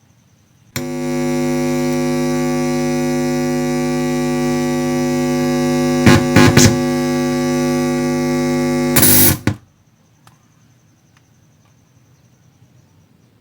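Audio power amplifier putting a loud, steady mains hum through its speaker: the humming fault being repaired. The hum starts abruptly about a second in, has crackling pops around six seconds and again near nine, and cuts off suddenly at about nine and a half seconds.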